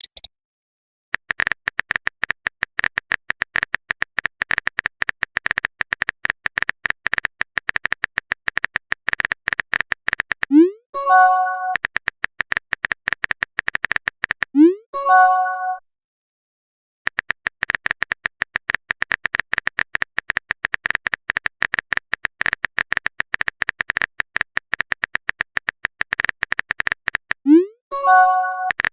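Rapid typing clicks from a chat-app sound effect, in long runs. Three times a run ends in a short rising swoop and a pitched message chime.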